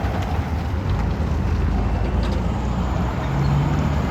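Roadside traffic rumble with wind buffeting the microphone, a passing vehicle's engine drone rising briefly about three seconds in.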